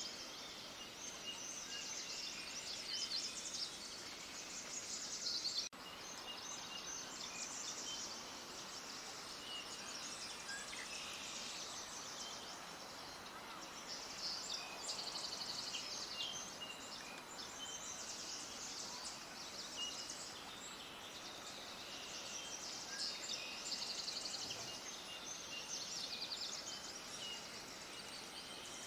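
Many small songbirds chirping and trilling at once in a dense, continuous chorus over a faint hiss, with an abrupt cut about six seconds in.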